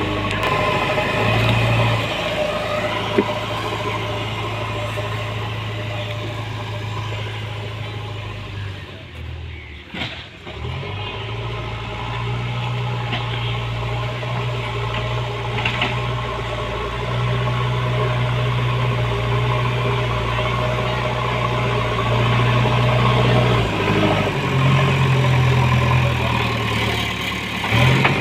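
JCB backhoe loader's diesel engine running under changing load, its note stepping up and down as the machine works, with a brief drop in level about ten seconds in.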